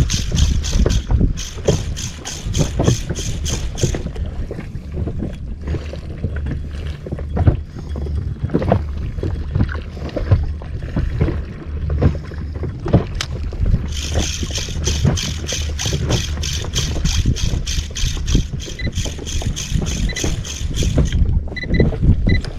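Fishing reel being cranked to work a jig, a rhythmic clicking about four times a second for a few seconds at the start and again for several seconds in the second half, over a steady low rumble of wind and water.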